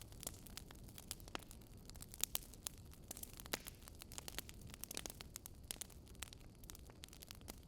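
Burning logs crackling in a fireplace: irregular sharp pops and snaps over a steady low rumble.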